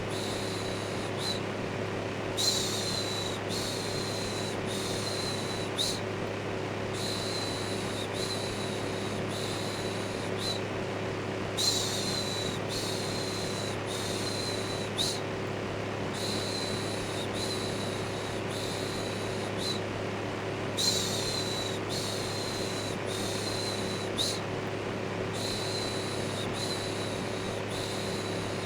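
Steady electric fan hum with a low drone, overlaid by a looped human "shhh" shushing sound. The shushes repeat about once a second in runs of about four, with a short pause between runs.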